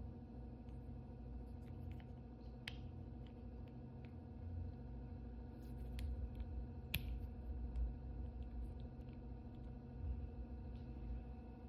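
Soft handling of toy packaging, with a few sharp clicks and light crinkles, the clearest about a third and two-thirds of the way through, over a steady low electrical hum.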